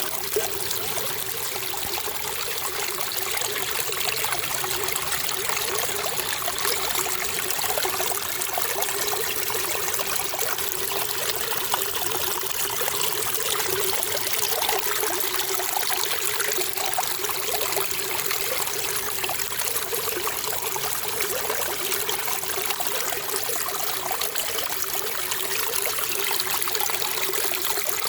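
Running water trickling and splashing in a steady, unbroken flow.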